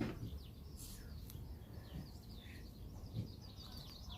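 Small birds chirping repeatedly and faintly over a low background rumble, with a few brief clicks.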